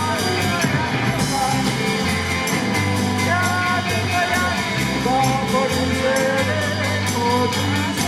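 Live rock-and-roll band playing: a steady drum beat over sustained bass notes, with a wavering lead melody line on top.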